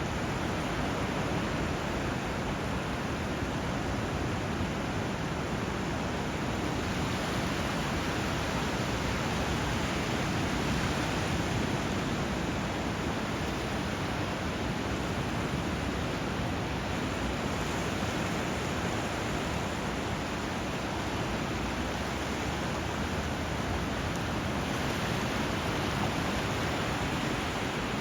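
Steady rushing of flowing water and surf, an even wash of sound with no distinct events.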